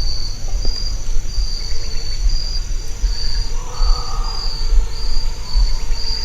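Crickets chirping in a steady pulsing rhythm, a high trill rising and falling about one and a half times a second, with a low uneven rumble underneath.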